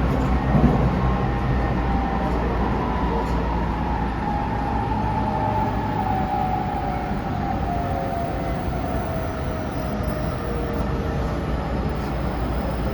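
Tsukuba Express electric train heard from on board: a steady rumble of wheels on rail, with a motor whine that slides slowly down in pitch as the train slows. A brief knock comes about half a second in.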